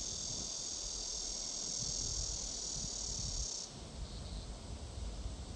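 An insect trilling steadily at a high pitch, which stops abruptly about two-thirds of the way through, followed by a brief faint burst. A low rumble sits underneath.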